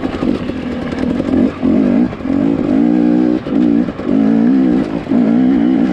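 Two-stroke dirt bike engine revving in short bursts of throttle, rising and falling about once a second with brief drops between, as the bike is ridden up over small rocky ledges.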